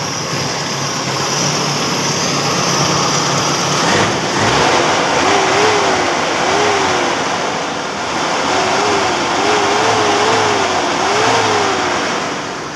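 Toyota engine with a freshly replaced cylinder head running, then revved up and down repeatedly from about four seconds in.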